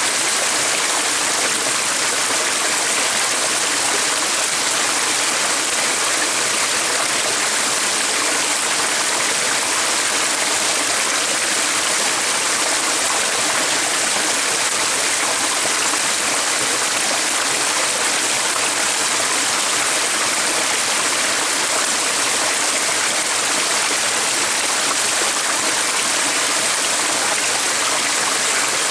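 Running water of a stream, a steady rushing, babbling hiss that holds even throughout without a break.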